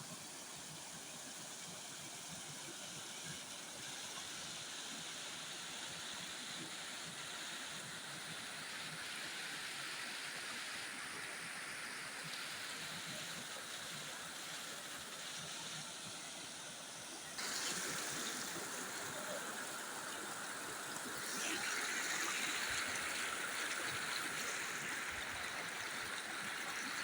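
Floodwater rushing in a mountain stream: a steady, continuous rush of fast-moving water. It gets louder abruptly about 17 seconds in and again about 21 seconds in.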